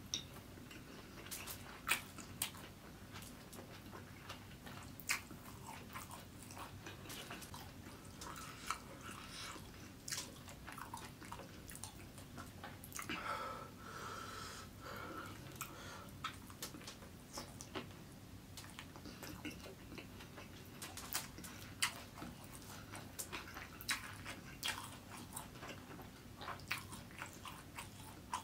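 A person chewing mouthfuls of fried rice eaten by hand, close-miked ASMR style: wet mouth smacks and clicks scattered throughout, with a short hummed voice sound about halfway through.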